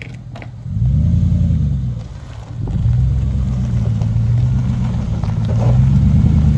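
Engine of a 4x4 vehicle pulling under load at low speed over a rough trail, rising in revs about a second in, easing off briefly after two seconds, then pulling again steadily; the climb is managed without low-range four-wheel drive.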